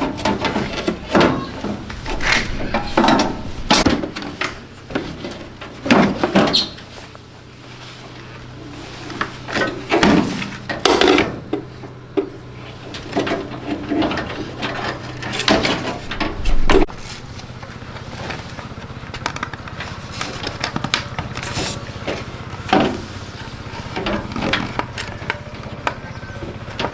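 Irregular knocks, clicks and clatter of tools and hard parts being handled during repair work on a water dispenser, over a faint steady low hum.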